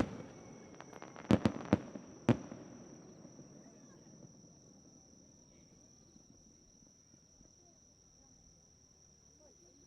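Fireworks bursting: about four sharp bangs in quick succession in the first two and a half seconds, their rumble echoing away over the next couple of seconds. A steady high-pitched insect trill runs underneath.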